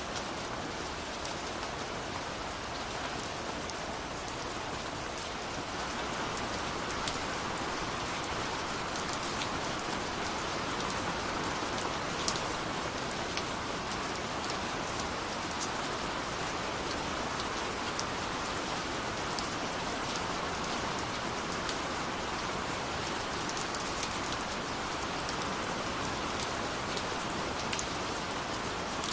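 Steady rainfall, an even hiss with many individual drops ticking sharply, growing slightly heavier about six seconds in.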